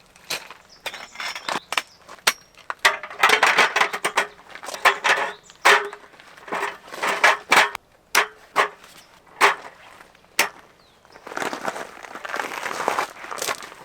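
Camping gear being handled: a busy run of sharp clicks, knocks and clacks mixed with short rustling, crinkling noises.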